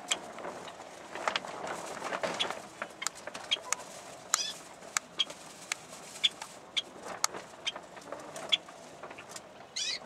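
Caged birds chirping: short, sharp chirps and clicks at irregular intervals, with a longer warbled call about four seconds in and another near the end.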